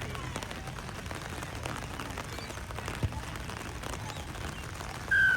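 Open-air background hum with faint scattered knocks and a single thud about halfway, then a short, loud whistle blast near the end, the referee's whistle.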